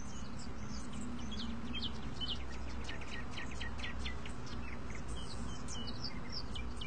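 Birds chirping, many short quick calls overlapping, over a steady low background hum.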